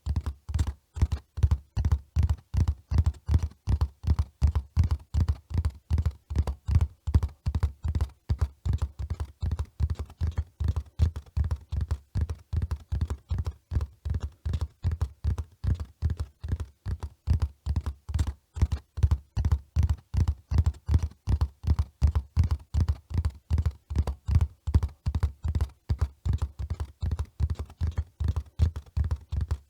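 Hoofbeats of a running horse: a steady rhythm of dull, low thuds, about three to four a second, without a break.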